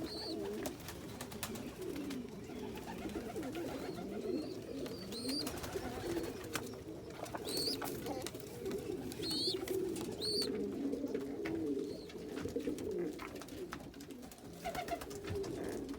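Domestic pigeons cooing continuously in a loft, overlapping low, wavering calls. A handful of short, high chirps break in over the first half.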